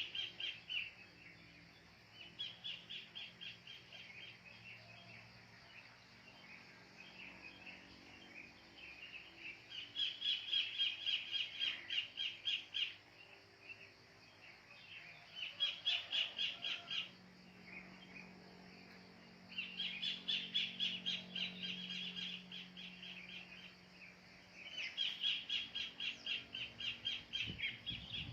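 Kingfisher (cekakak) calling in repeated bouts of rapid, harsh notes, about five a second, each bout lasting two or three seconds with pauses of a few seconds between.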